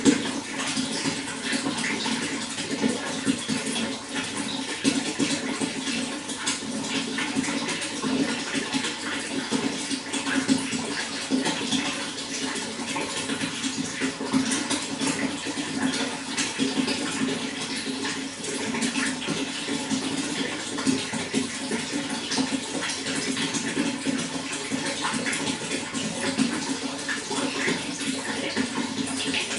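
Running water: a steady rush with continual small splashes, unchanging throughout.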